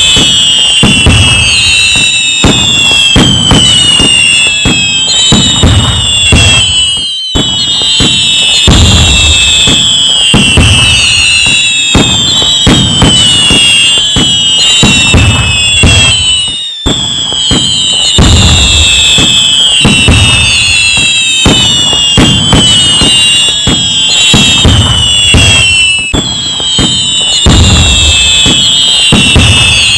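Dense fireworks display: many overlapping whistles falling in pitch over a continuous run of bangs, crackling and low booms. The sound cuts out for an instant twice.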